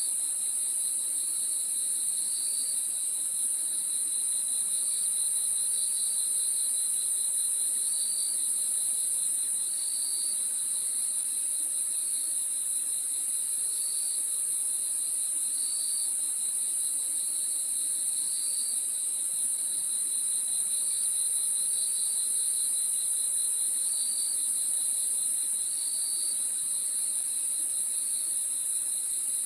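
Crickets chirping in a continuous chorus: a steady high trill over a lower, rapidly pulsing chirp that swells every second or two.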